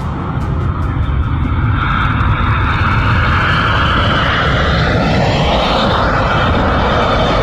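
Jet engines of a low-flying Boeing 737-800 airliner, a loud steady roar. About five seconds in, its upper band dips in pitch and rises again.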